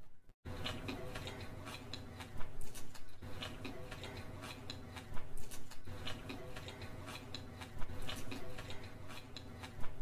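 Close-miked chewing and wet mouth clicks of someone eating chowmein noodles, a rapid run of small smacks with louder bursts every two to three seconds, over a low steady hum. A moment of silence at the very start.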